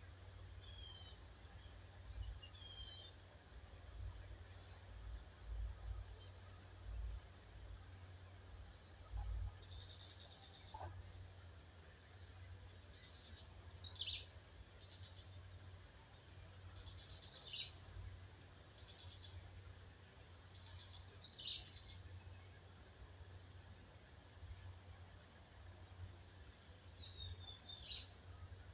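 Birds calling faintly in a wild setting: short high chirps and quick downward-sweeping notes every second or two, over a low rumble that rises and falls.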